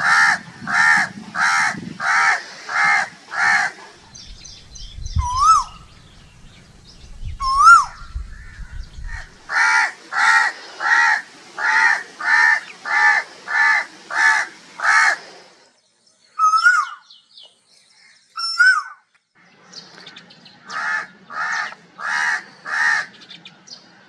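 Crows cawing in three bouts of rapid, evenly spaced harsh caws, about two a second. Between the bouts come a few single rising whistled notes of an Asian koel.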